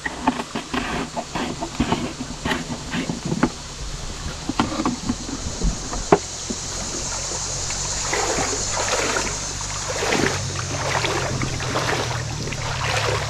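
Four-wheeler (ATV) engine running steadily and growing louder from about halfway through. Scattered knocks and splashes sound in the first half.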